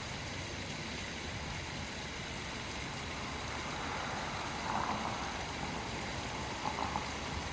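Steady rush of falling water from a small waterfall, with a couple of faint brief sounds about five and seven seconds in.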